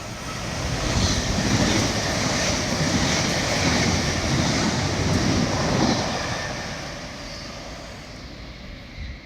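A train passing through the station at speed: a rush of wheel and rail noise builds over the first second, stays loud for about five seconds, then fades away.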